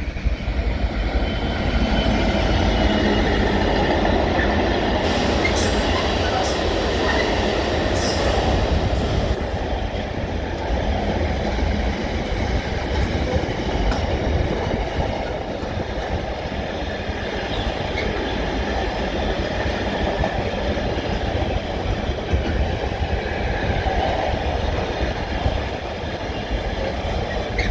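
A train running at the platform: a loud, steady rumble with faint high tones above it, and a cluster of sharp clicks about five to ten seconds in.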